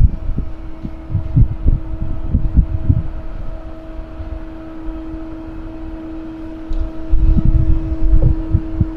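Wind buffeting the microphone in uneven low rumbles, strongest in the first few seconds and again near the end, over a steady mechanical hum.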